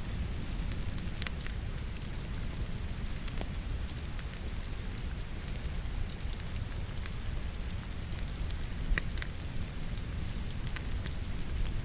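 Wood logs burning in a fireplace, crackling with scattered pops over a steady low rumble, mixed with the even hiss of falling rain.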